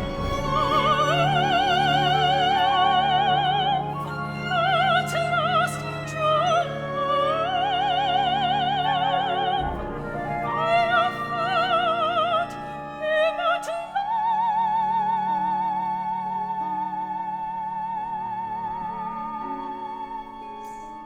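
Operatic music: a high melody with wide vibrato and quick trilling runs over a held low note that drops out about ten seconds in, closing on one long high note that fades.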